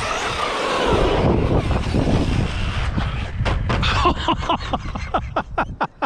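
Electric RC car motor whining as it drives, then revved in a run of short, quick throttle blips that come faster, several a second, from about halfway through.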